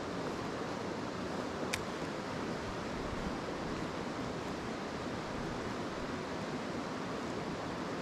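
Mountain stream rushing over rocks, a steady even rush of water, with one sharp click a little under two seconds in.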